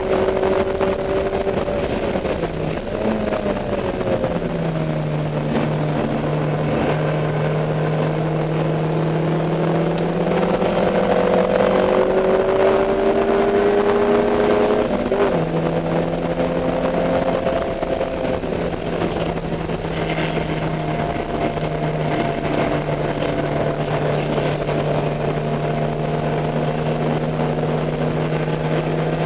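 Dodge Neon race car's four-cylinder engine, heard onboard, running hard around a circuit. The pitch dips early on, climbs gradually for about ten seconds, changes abruptly about halfway through, then holds fairly steady.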